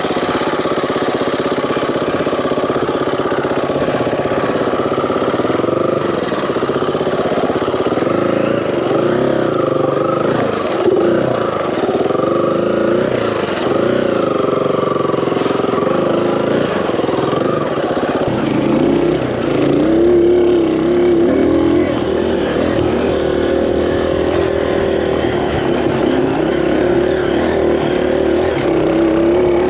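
Four-stroke single-cylinder dirt bike engine running under way on a trail, its pitch rising and falling as the throttle is worked.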